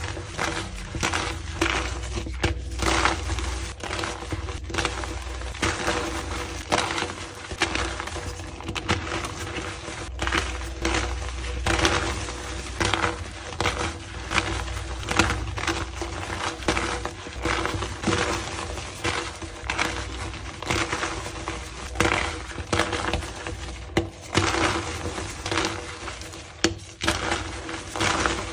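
Blocks of gym chalk being crushed and crumbled, a dense run of irregular crunches and crackles over a steady low hum.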